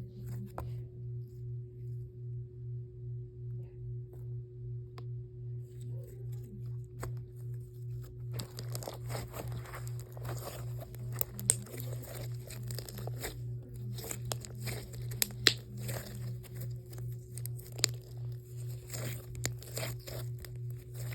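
Cookie dough slime being squished and stretched by hand: sticky crackles and small pops, thickening from about eight seconds in, with a few louder snaps. A low hum pulses steadily underneath.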